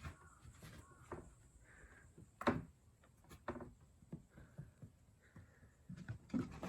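A kitten playing, making scattered light taps and knocks, the loudest about two and a half seconds in.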